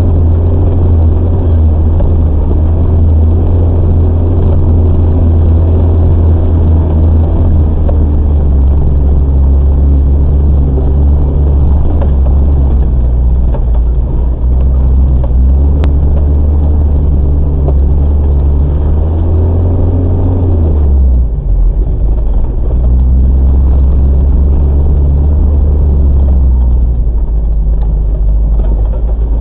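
A Toyota off-roader's engine running at low revs as it crawls over a rocky forest track at walking pace, heard from inside the cab: a loud, steady, deep drone. The note drops away briefly about two-thirds of the way through, then picks up again.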